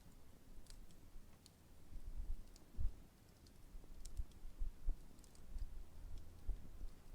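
Campfire of burning wood settling down, giving sparse small crackles and pops, about one or two a second. Underneath is a faint low rumble with a few soft low thumps, the loudest about three seconds in.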